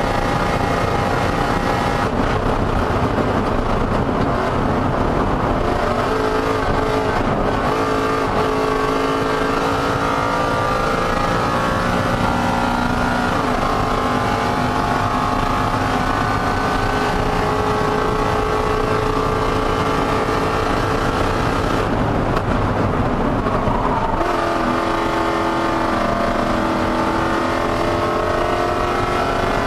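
2018 Ford Mustang race car's engine running high in the rev range at full race pace, heard from inside the cabin. Its note slowly falls and rises through the corners, dipping and climbing again near the end, over a steady rush of wind and road noise.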